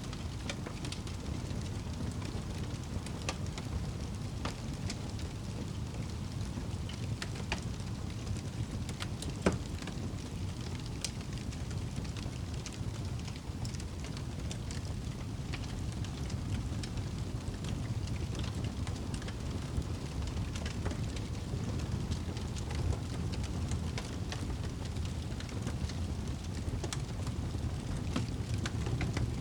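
Wood fire burning in a fireplace: a steady low rumble of flames with frequent small crackles and pops, one sharper pop about a third of the way through.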